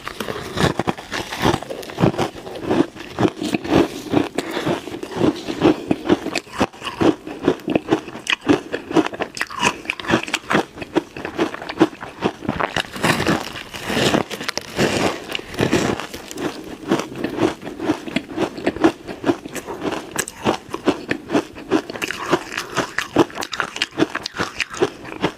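Ice being bitten and chewed close to the microphone: a fast, continuous run of crisp crunches and cracks.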